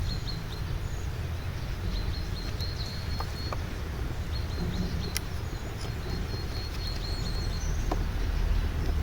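Outdoor ambience: a steady low rumble, with a small bird's high, rapid trill repeated in three runs of a second or two each. A few faint clicks are heard in between.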